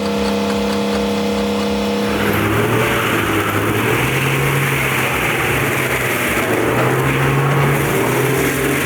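A heavy machine's engine running at a steady pitch. From about two seconds in it gives way to a loud, rough grinding noise with a lower, wavering engine drone underneath.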